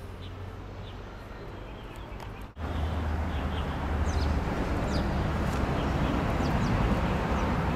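Outdoor ambience: a steady wash of background noise with a low rumble, and small birds chirping now and then in short, falling chirps. The background gets suddenly louder about two and a half seconds in.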